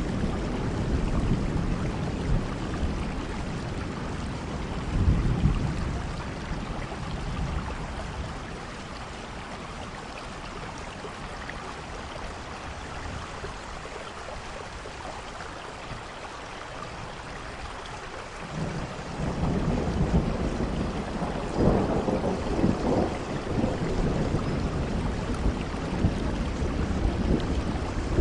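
Steady rain with rolling thunder. Thunder rumbles in the first few seconds, then dies down to rain alone, and builds again about two-thirds of the way through, loudest a few seconds later.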